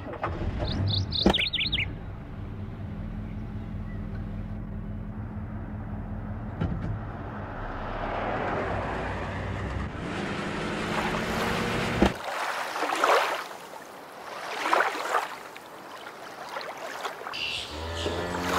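Car engine sound effect running steadily, with a short bird chirp about a second in. The engine cuts off suddenly about twelve seconds in, followed by two whooshing swells of noise.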